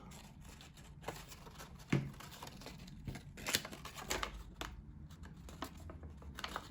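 Paper model pieces being handled and pressed together while the tabs are glued, giving scattered light taps and crinkles of the card, one louder tap about two seconds in.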